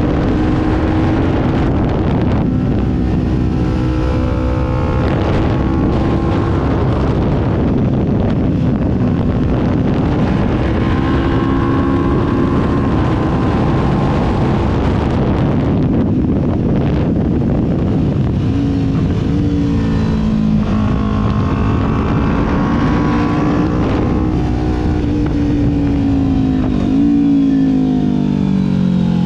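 Kawasaki Ninja 400 parallel-twin engine pulling steadily under way, with wind rush. The engine note holds fairly even, drops about two-thirds of the way through, and gives a short blip then falls near the end.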